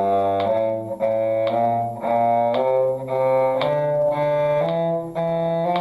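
Cello playing an F major one-octave scale in even eighth notes, bowed with two notes slurred to each bow, so there is a short break in the sound about every second.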